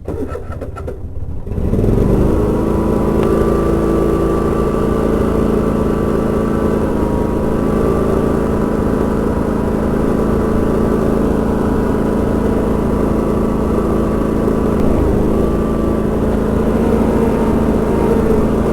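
Garden tractor engine running steadily under load. It comes in about two seconds in, with a brief dip in pitch near the end.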